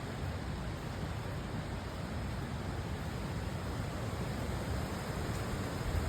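Steady rushing of a river, an even wash of water noise with a deep rumble underneath and no breaks.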